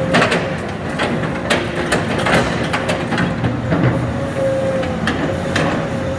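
Hydraulic excavator working demolition: a steady diesel engine with a held hydraulic whine, and sharp clanks and knocks every second or so.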